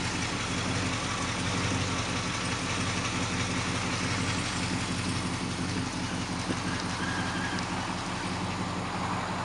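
1968 Chevrolet Chevelle SS 396's big-block V8 idling steadily.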